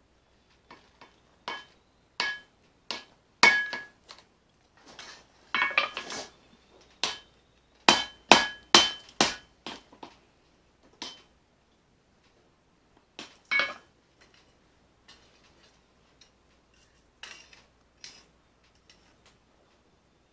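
Hammer striking steel on an anvil, forging a knife blade from leaf-spring steel: irregular groups of sharp metallic blows, each with a short bright ring, with pauses between the groups. The heaviest run of blows comes about eight seconds in, and the blows thin out and grow lighter in the second half.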